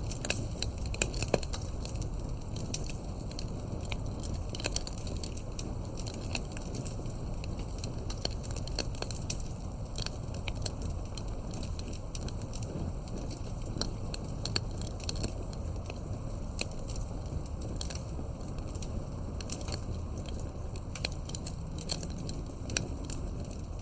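Campfire burning, with irregular sharp crackles and snaps of the wood over a steady low rumble of the flames.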